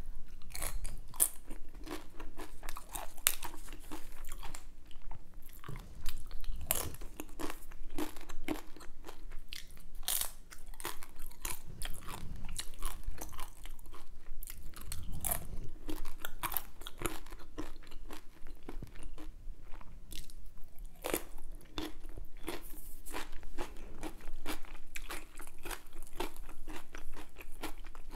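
Close-miked eating: a person chewing and crunching crispy, salty snack food, with many irregular sharp crunches.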